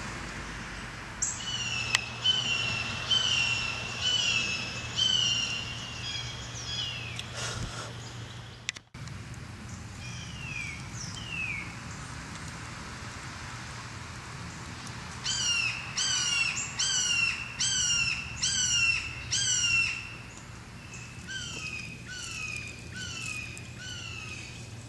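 A songbird singing runs of repeated falling notes, about two a second, breaking off briefly near the middle and starting again, fading somewhat toward the end. A faint steady low hum runs underneath.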